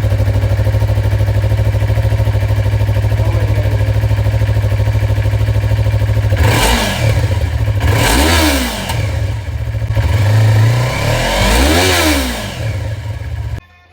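Yamaha MT-03 motorcycle engine idling steadily, then revved in a series of blips, the pitch rising and falling each time, before it is switched off near the end.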